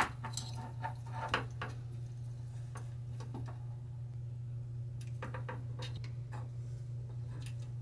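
Scattered light clicks and taps of plastic and metal parts as a machine stack light's housing, bulb sockets and circuit board are handled and taken apart, over a steady low hum. The sharpest click comes right at the start.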